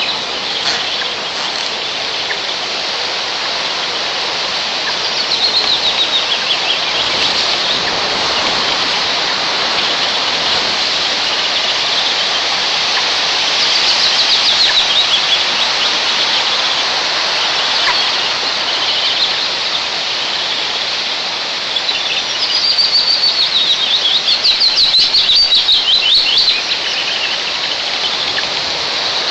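Strong wind rushing through the pine and over the microphone, with a bird calling high, fast series of notes that fall in pitch, heard three times, the longest a few seconds before the end.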